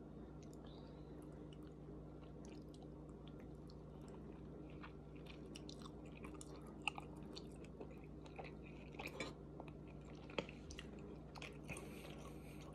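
Close-up chewing and mouth sounds of a person eating Shirakiku Sanuki udon noodles and pieces of steak, with a fork scraping and clinking in the bowl and a couple of sharp clinks in the second half. A steady low hum runs underneath.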